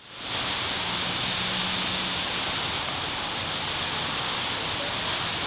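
Steady, even hiss of a windstorm, with no gusts or breaks, fading in over the first half second.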